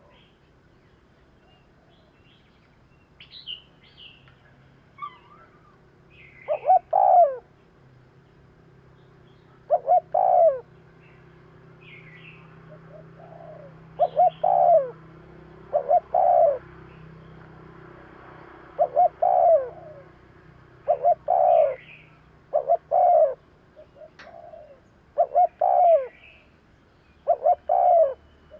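Spotted doves cooing: short, repeated coo phrases every two to three seconds, starting about six seconds in. A few faint high chirps of other small birds come before them.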